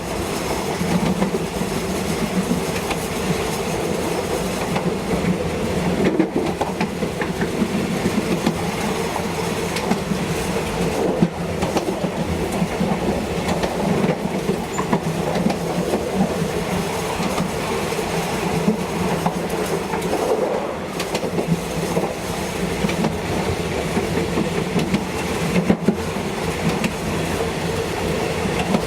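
A State Railway of Thailand passenger train running along the track, its wheels clicking over the rail joints under a steady drone.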